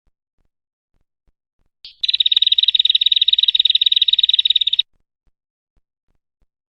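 Bird-trapping lure call: a loud, rapid, even trill, high-pitched and about three seconds long, starting suddenly and cutting off sharply.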